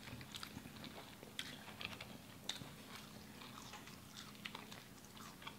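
A person chewing food close to the microphone: faint, irregular clicks and smacks of the mouth, a few each second.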